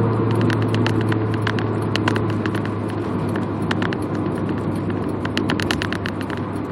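Honda Accord's H22A four-cylinder engine, breathing through 2.2-inch exhaust piping, running at speed as a steady low drone whose pitch and loudness ease off slightly. Road and wind noise rush underneath, with scattered sharp clicks.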